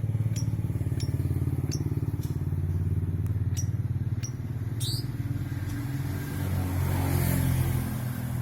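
A motor-vehicle engine, likely a motorcycle, running with a steady pulsing hum; it swells louder and hissier to a peak about seven seconds in. A few short, high bird chirps come through now and then.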